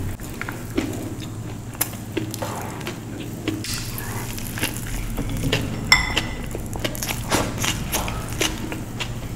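A person chewing and biting food, with many small, irregular crackling clicks.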